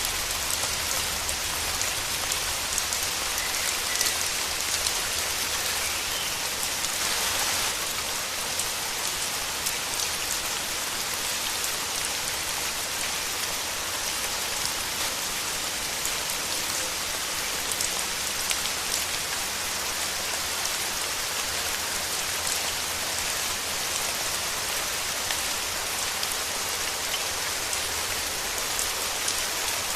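Steady rain falling, a dense even hiss with many fine drop ticks; the rain swells briefly about seven seconds in.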